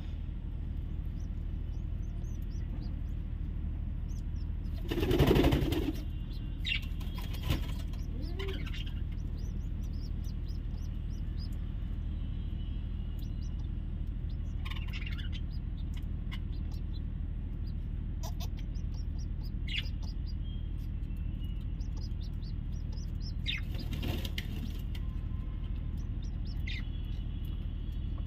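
Scattered short, high bird chirps over a steady low hum. A louder rustling burst comes about five seconds in, with smaller ones near eight and twenty-four seconds.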